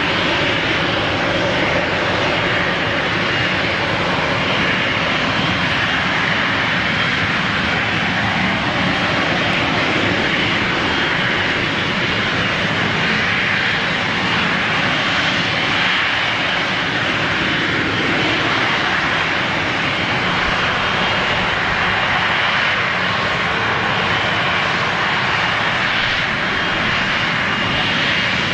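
Jet airliner engines running with a loud, steady noise that holds level throughout, with a faint high whine above it.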